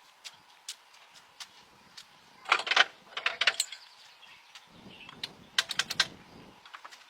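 Scattered sharp clicks and knocks, like hand work on metal parts, with a quick cluster about two and a half seconds in and a brief low rumble about five seconds in.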